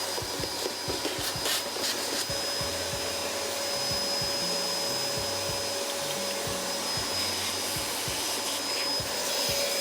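Vacuum cleaner running steadily with a constant high whine, cleaning up the plastic dust and cuttings from the cut door panel.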